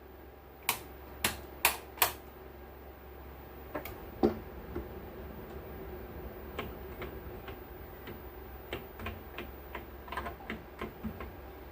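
Clicking from handling the audio mixer's controls: four sharp clicks in the first two seconds, then lighter scattered clicks. Under them runs a low steady hum, with no hiss left in the output.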